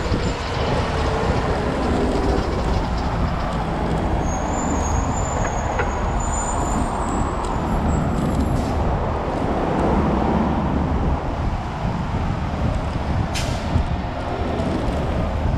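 Street traffic on a city road, a steady rumble of passing vehicles mixed with wind on the microphone. Faint high squeals come in the middle, and a short sharp hiss comes near the end.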